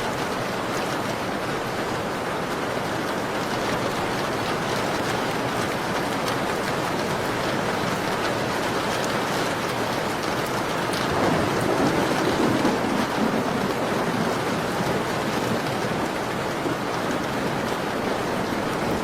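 Steady rain falling on a window, an even hiss with faint scattered drop ticks. A louder, deeper swell comes about eleven seconds in and fades after a couple of seconds.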